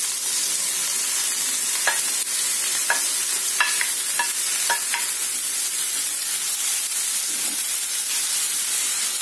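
Chopped mushrooms sizzling in hot coconut oil in a non-stick frying pan as they are pushed off a plate with a spatula, a steady frying hiss. A few light taps of the spatula come between about two and five seconds in.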